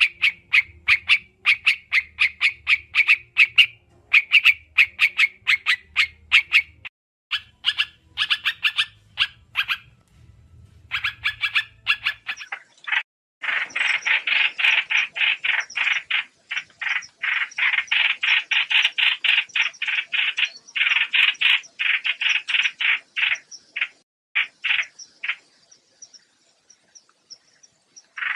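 A trao trảo bird calling in fast trains of short, harsh, repeated notes, many to the second, as used for a trapping lure. The notes come in bursts with short breaks, run unbroken through a long, dense stretch from about halfway, and thin to scattered notes near the end.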